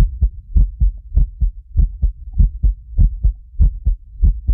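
Car-audio subwoofers, a pair of 15-inch subs, playing a rapid run of short, deep bass hits, about four to five a second, at high volume.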